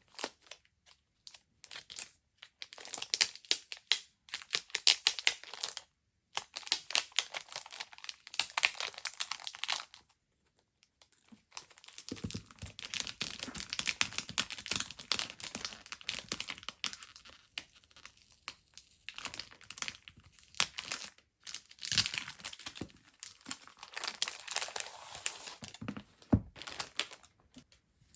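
Shopping packaging being crinkled and rustled by hand while the haul is unpacked, in spells of close crackling with brief pauses about six and ten seconds in.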